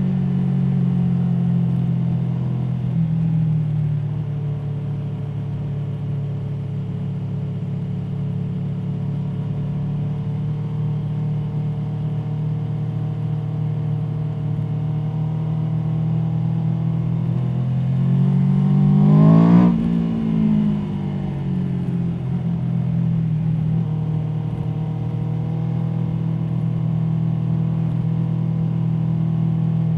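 Aprilia Tuono V4 motorcycle's V4 engine running under way at fairly steady revs, then revving up sharply about two-thirds of the way through and dropping back down.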